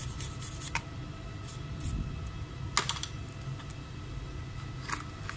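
Scattered light clicks and taps in small clusters: several near the start, a few about three seconds in and one near five seconds, over a steady low hum.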